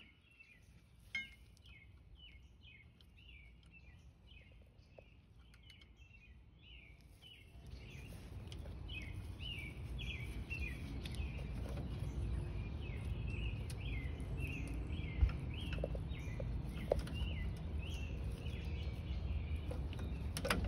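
A bird chirping over and over, about two short falling chirps a second. A low rumble comes in about a third of the way through and grows, and a few sharp clicks stand out, the loudest one early on.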